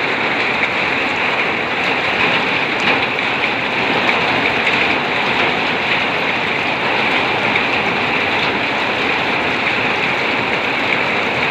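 Heavy rain pouring down steadily: a dense, even hiss of countless drops.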